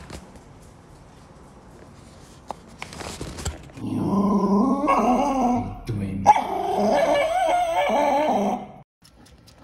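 A dog vocalising in two long, wavering growl-like whines, the first starting about four seconds in and the second a little after six seconds, preceded by a few faint clicks and rustles.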